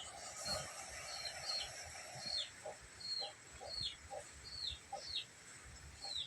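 A chicken's repeated high peeping calls, each sliding down in pitch, about one or two a second, with short lower notes between them.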